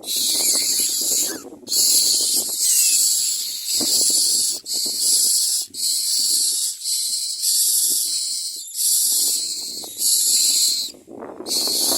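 Myna nestlings giving harsh, hissing calls, repeated in a run of roughly one call a second.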